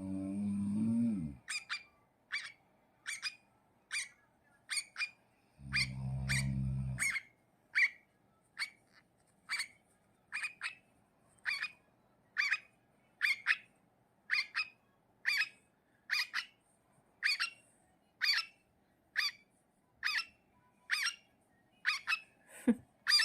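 Pet bulbul giving short, sharp calls over and over at an even pace, about three every two seconds. A person snores twice, with low rasping snores at the start and about six seconds in.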